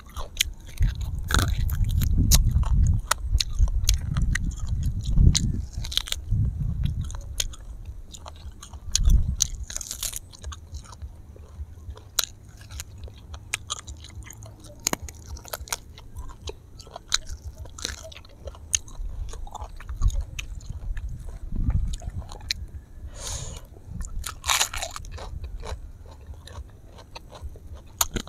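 Close-miked chewing and biting of roasted duck, with many sharp clicks and crunches as meat is gnawed off the bone. There is loud low thumping through the first several seconds.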